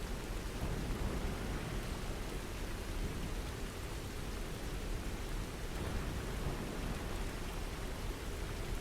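Steady rain falling: an even hiss with a low rumble underneath and no distinct drops or strikes standing out.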